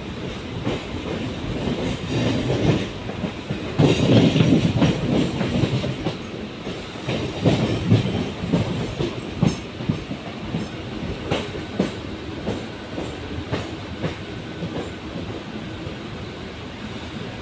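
Suburban local train running along the line, its wheels clattering over the rail joints above a steady rumble, loudest about four seconds in.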